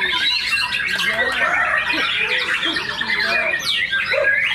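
Many caged songbirds, white-rumped shamas (murai batu), singing over one another in a dense, unbroken tangle of quick chirps, whistles and trills, with the shouts and chatter of people beneath.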